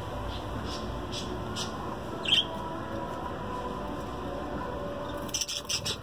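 Small caged birds chirping over a steady room hum: a few faint chirps, one louder chirp about two seconds in, then a quick run of chirps near the end.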